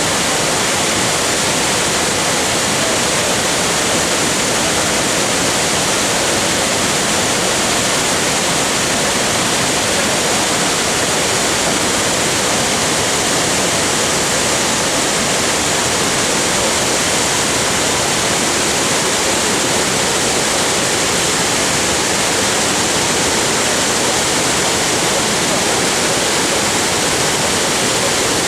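Waterfall in full monsoon flow: a loud, steady rush of falling water that does not change.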